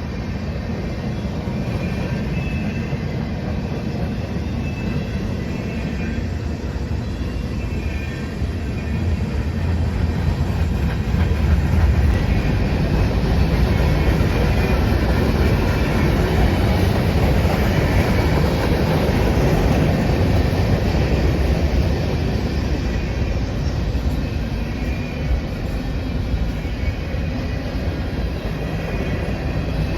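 Train rolling past on the rails: a steady rumble and clatter of wheels over the track, growing louder through the middle.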